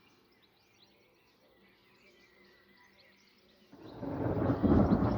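Faint birdsong chirping, then about three and a half seconds in a deep rumble of thunder swells up and keeps going, following a lightning flash.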